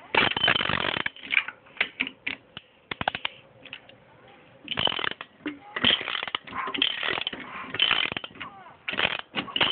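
A mechanism being turned one way, giving irregular clicking and rattling bursts that come in clusters with short pauses between. The speaker takes this as the normal sound.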